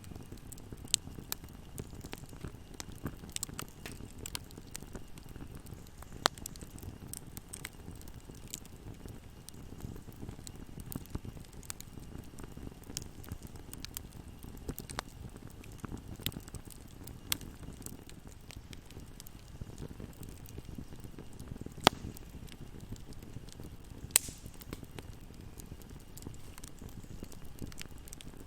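Fire burning in a fireplace: a steady low rumble with scattered crackles and sharp pops, the two loudest coming in the last third.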